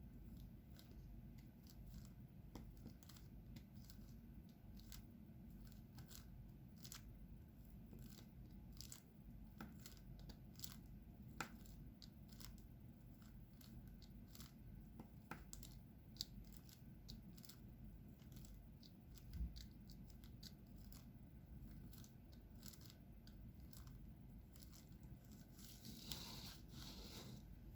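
Faint, irregular small clicks and taps, one to two a second, of a diamond-painting pen picking up resin drills and pressing them onto the adhesive canvas, over a low room hum, with one soft thump about two-thirds of the way in.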